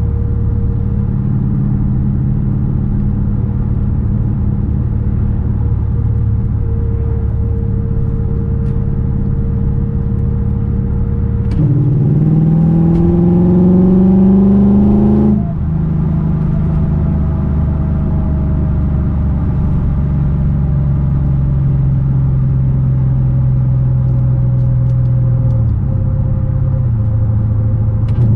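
Lexus IS F's 5.0-litre V8, fitted with headers and an X-Force exhaust, heard from inside the cabin while driving: a steady low drone. About twelve seconds in, the engine pulls harder for about four seconds, its pitch rising and getting louder, then the pitch drops suddenly back to steady cruising. The pitch then slowly falls, with a small step down near the end.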